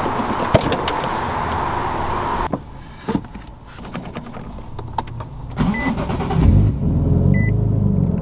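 A car engine starting about six and a half seconds in and settling into a steady idle, with a short electronic chime repeating every second and a half or so. Before it, a hiss with scattered clicks and knocks.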